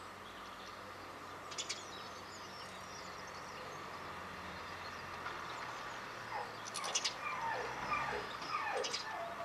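Garden birds calling over a steady background hum. There are short high chirps about a second and a half in and again near 7 and 9 seconds, and a run of lower sliding calls through the last three seconds.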